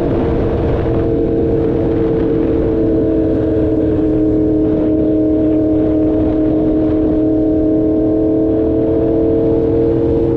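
Engine of a 2016 Yamaha R1 crossplane inline-four sport bike running at a steady cruising speed, its pitch sagging a little and then rising gently. Wind rumble on the microphone runs underneath.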